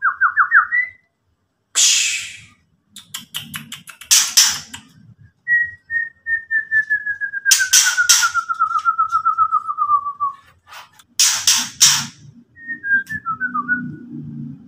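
White-rumped shama (murai batu) giving its harsh rattling 'ketrekan' calls, several loud rasping chatters of under a second each. Between them come fast whistled trills, one long trill sliding slowly down in pitch for about five seconds in the middle.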